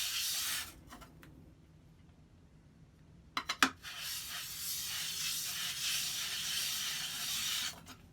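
Steel plane blade rubbed back and forth on 400-grit abrasive paper to take off the burr, a steady gritty scraping hiss. It stops for a few seconds, a few sharp clicks sound about three and a half seconds in, then the rubbing starts again and stops shortly before the end.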